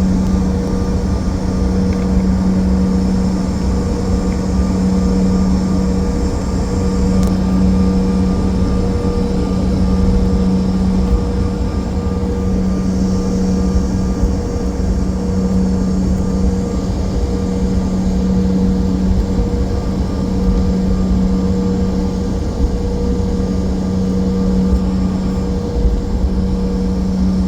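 Airliner cabin noise in flight: the steady drone of the jet engines and airflow, with a low, constant hum.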